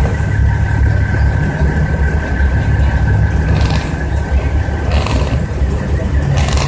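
Heavy diesel truck engine idling with a steady low rumble, with a few short hisses partway through.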